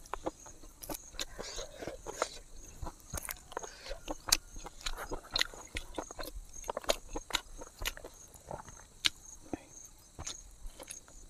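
A person eating by hand, chewing pork close to the microphone: many short, irregular wet clicks and smacks of the mouth. A faint steady insect chirring runs behind.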